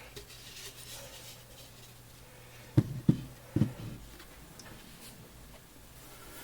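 Soft handling thumps as a large clay pot is moved: four short, low knocks in two quick pairs about three seconds in, over a faint steady hum.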